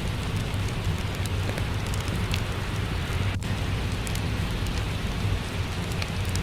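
Steady rain falling, mixed with a fireplace crackling in scattered sharp pops, over a constant low rumble.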